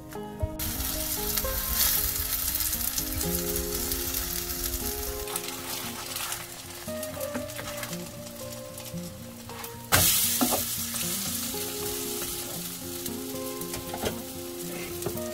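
Kimchi pancake batter frying in a nonstick pan, a steady sizzle that starts just after the beginning and turns sharply louder about ten seconds in.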